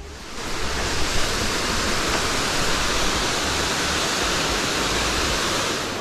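Waterfall: a steady rush of falling water that comes up over about the first second, then holds even.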